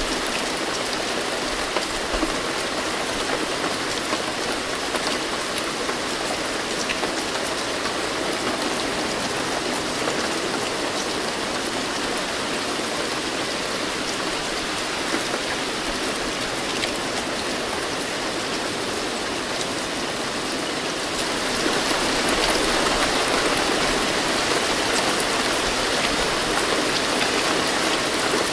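Steady rain falling, with scattered drops ticking on a surface; it grows a little heavier about three-quarters of the way through.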